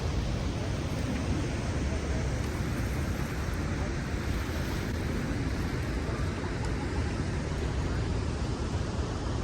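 Rushing water of the Rhine Falls, a large river waterfall, heard as a steady even noise with no breaks.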